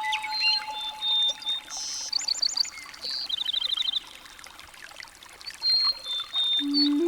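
Birds chirping in short high whistles and quick trills over a steady trickle of water.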